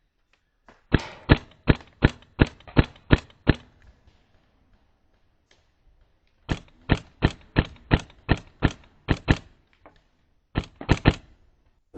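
Airsoft rifle firing rapid single shots, about three a second, in three strings with short pauses between: two long strings of about nine shots, then a quick three near the end.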